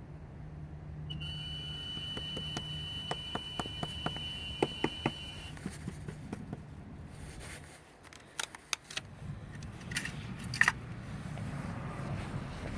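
Steady low hum from the engine bay of a switched-off 2016 Ford Focus, a noise the dealer later traced to the air-conditioning system. A steady high tone sounds for about four seconds with a run of clicks, the hum fades out past the middle and returns near the end, and a few sharp clicks come in between.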